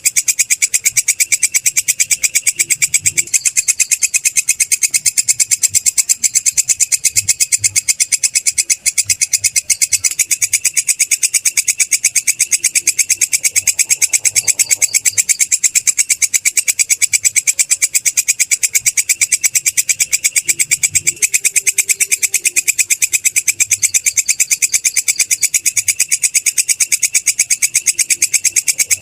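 Belalang kecek katydid calling: a loud, steady, high-pitched trill of very rapid, evenly spaced pulses that goes on without a break.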